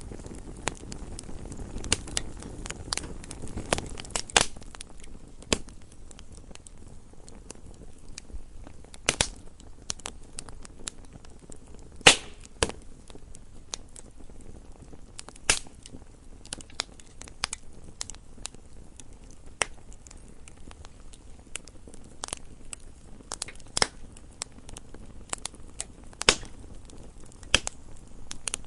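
Wood fire burning in a fireplace: a low steady rush of flame with irregular sharp crackles and pops of burning logs, the loudest pop about twelve seconds in.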